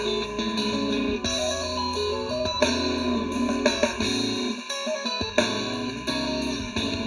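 Math-rock band recording: bright, clean electric guitar lines in a happy major key over bass guitar and drums. The bass drops out briefly about four and a half seconds in.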